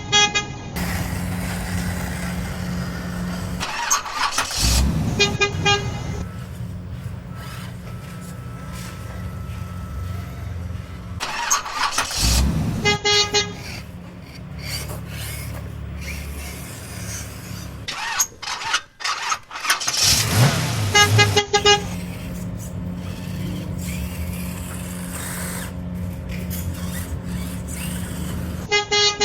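Short runs of rapid horn-like beeps, heard four times several seconds apart, over a steady low hum.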